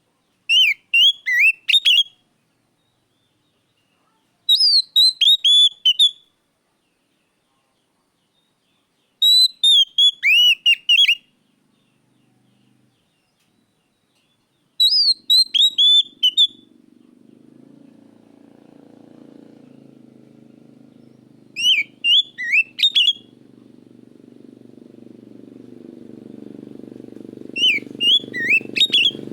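Oriental magpie-robin (kacer) singing six short phrases of quick, falling whistled notes, spaced a few seconds apart. From about halfway a low motor-vehicle rumble grows steadily louder underneath.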